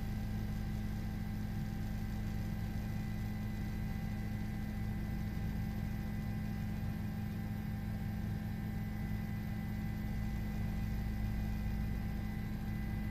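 A steady low hum with a few faint, steady high tones above it, unchanging throughout.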